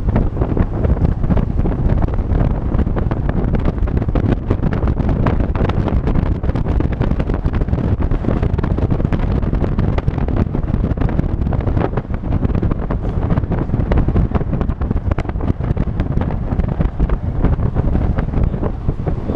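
Loud, constant wind buffeting on the microphone of a camera carried on a moving vehicle, a rough low rumble that drowns out most other sound.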